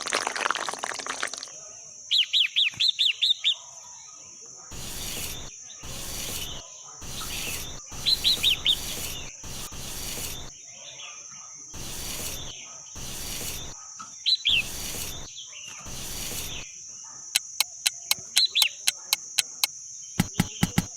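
Bird calling in short, rapid runs of high chirps, several times over. Between the calls comes a run of evenly spaced rustling or scraping noises about once a second, with a steady high tone underneath. Near the end there is a quick series of sharp clicks.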